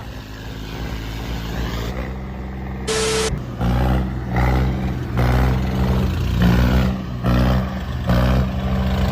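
Tractor diesel engines running hard under load during a tractor tug-of-war, the drone surging again and again from about two seconds in. A short hiss sounds about three seconds in.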